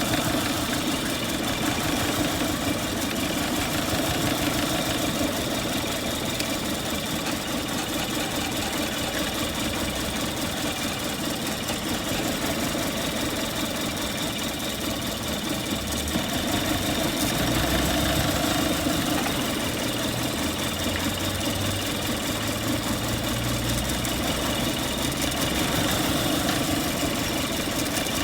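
A car engine running steadily at idle, with a slightly heavier low rumble for a few seconds past the middle.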